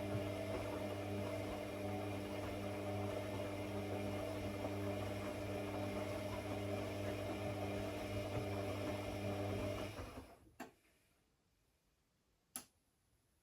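A steady machine hum with a low, even pitch that stops about ten seconds in, leaving near silence broken by two sharp clicks.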